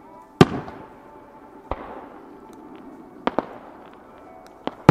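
Aerial fireworks shells bursting in a string of separate bangs, each with an echoing tail. The loudest comes about half a second in, weaker ones follow about a second later and as a quick pair past the middle, and a second loud bang comes at the very end.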